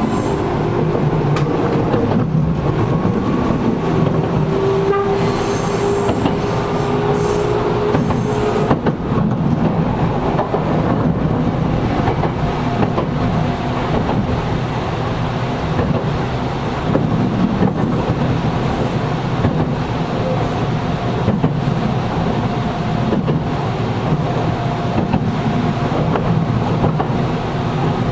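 Inside a Gakunan Railway 7000-series electric railcar running along the line, with the air conditioning running: steady wheel and rail noise with irregular knocks over the rail joints. For the first eight seconds or so a motor whine climbs slightly in pitch, then stops as the car carries on.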